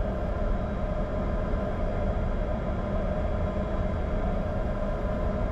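Cockpit noise of a Bombardier Challenger 605 taxiing with its twin GE CF34 turbofans at idle: a steady hum with several steady tones over a low rumble.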